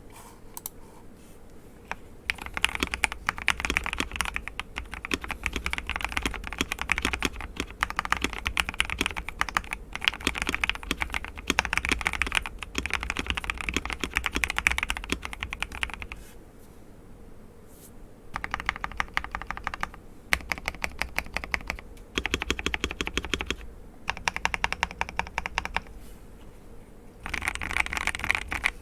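Typing on a KBD67 Lite R4 mechanical keyboard fitted with lubed and filmed Gateron Oil King linear switches and lubed, Holee-modded stabilisers, in the stock case. A long stretch of fast continuous typing is followed by several shorter bursts with brief pauses between them.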